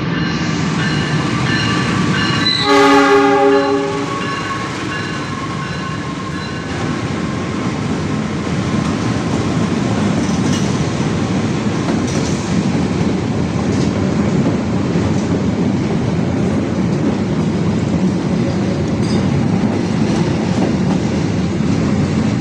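A train horn sounds one blast of about a second, roughly three seconds in, over the steady rumble and clatter of a train running on the rails.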